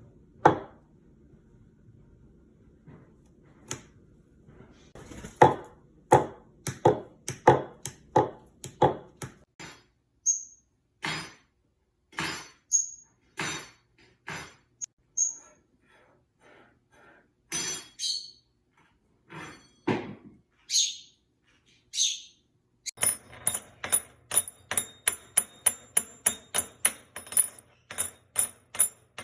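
Many sharp taps and clicks, turning into a quick regular run of about four a second near the end, with a few short high chirps and sweeping whistled calls of a small pet bird between them.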